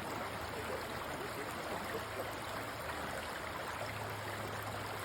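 A shallow creek running steadily over and between river stones.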